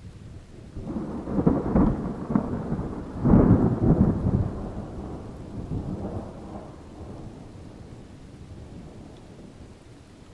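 A thunderclap with crackling strikes that build to a loud peak about three and a half seconds in, then a long rolling rumble that slowly fades away.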